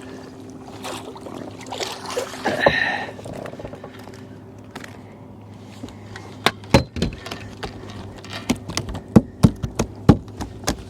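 Sharp, irregular knocks and thumps, coming thicker from about six seconds in, as a just-landed striped bass is handled and flops in a fishing boat. A steady low hum runs underneath.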